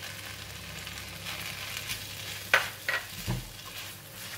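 Stir-fried rice noodles and bean sprouts sizzling steadily in a hot wok as fried egg is tipped back in and stirred with a spatula. A few sharp clicks and a duller knock come about two and a half to three seconds in.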